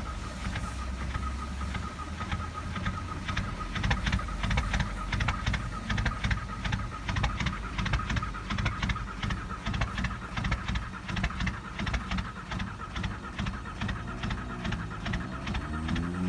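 Diesel car engine running just after a cold start, with a steady rhythmic clatter of quick, even ticks over a low rumble. The clatter gets louder a few seconds in.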